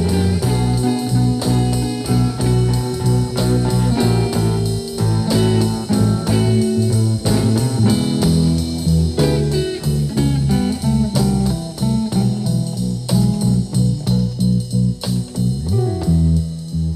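Blues guitar playing an instrumental passage: plucked notes over a steady line of low bass notes.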